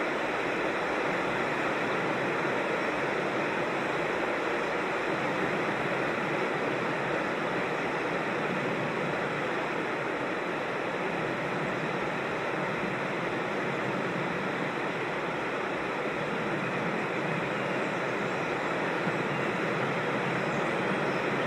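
Creek water rushing over rocks in a small waterfall, a steady unbroken rush.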